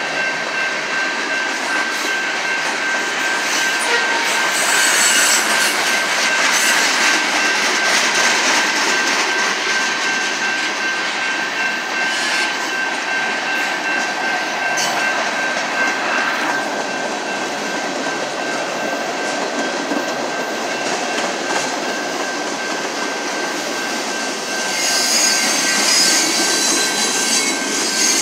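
Freight cars of a mixed freight train rolling past at a grade crossing, steel wheels clattering over the rail joints, with a steady high-pitched tone above the wheel noise and louder spells a few seconds in and near the end.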